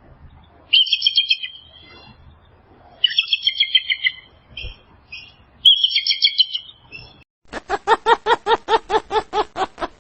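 Bird chirping in four short bursts of quick, high notes. It is followed about seven and a half seconds in by a rapid run of lower repeated calls, about five a second.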